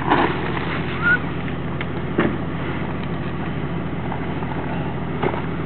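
Jeep Wrangler TJ engine idling steadily, with a few sharp crunches of footsteps on loose rock.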